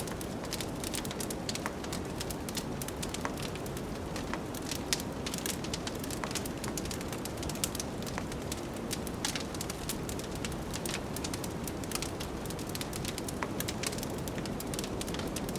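Wood fire crackling in a fireplace, with frequent irregular sharp pops and snaps over a steady low rush of blizzard wind.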